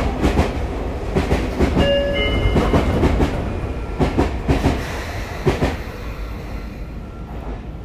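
Sotetsu 8000 series electric train running: a steady rumble with its wheels clicking over rail joints, and a brief squeal of thin high tones about two seconds in. The running noise eases off over the last two seconds.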